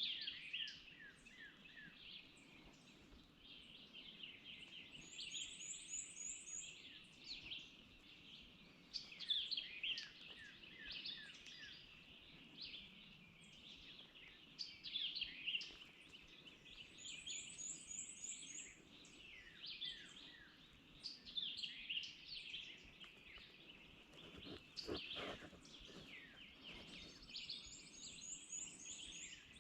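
Several songbirds singing faintly, with many overlapping chirps and short whistled phrases and a high, rapid trill that repeats about every eleven seconds. A short rattling burst comes near the end.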